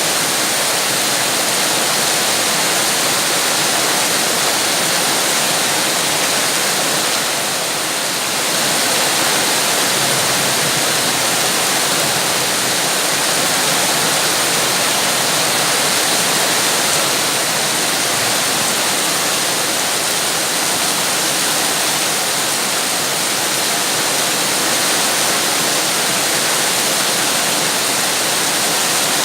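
Heavy, steady rain: a dense, even hiss of rainfall.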